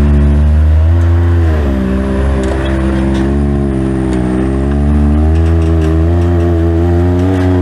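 Side-by-side UTV engine working at low speed over rocks, its revs rising and falling with the throttle.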